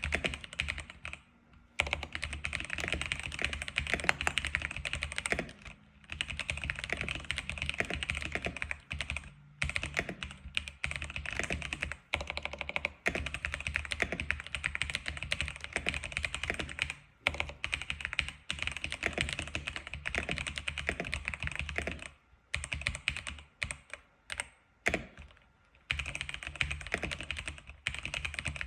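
Typing on an X87 keyboard in fast, continuous runs of keystrokes broken by short pauses, with a sparser stretch of single keystrokes about three-quarters of the way through.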